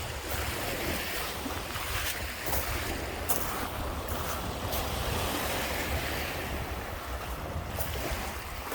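Lake Michigan waves washing onto the beach, a steady surf noise, with wind buffeting the microphone in a low rumble.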